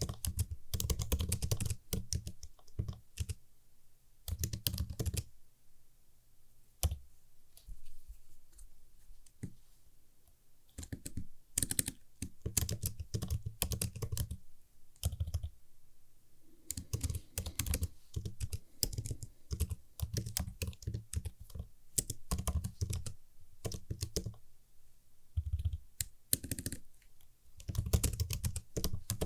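Typing on a computer keyboard: runs of quick key clicks in bursts with short pauses between, thinning out to a few scattered keystrokes for several seconds about a quarter of the way in.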